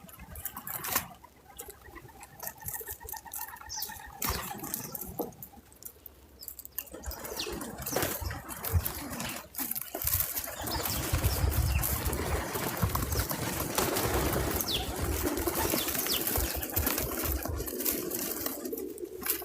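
Birds at a backyard feeder: wings flapping and fluttering, with a few short chirps and scattered clicks and rustles. A steadier rushing noise sets in about halfway through.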